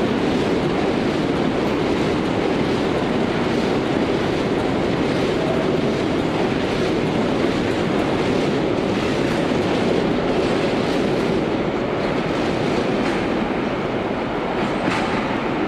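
Wheels of a long rake of Network Rail open freight wagons running over the rails, a steady rumble as the train passes.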